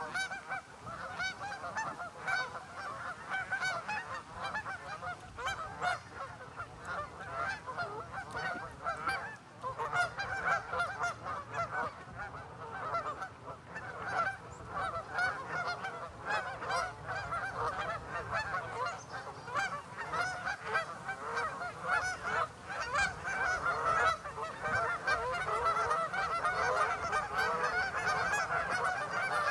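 A flock of geese honking, many calls overlapping in a continuous chorus.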